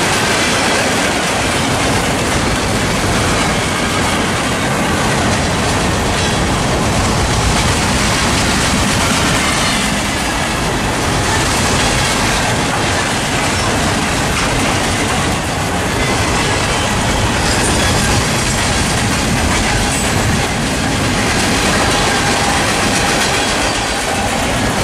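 Cars of a mixed freight train rolling past close by, their steel wheels on the rails making a steady, loud rumble.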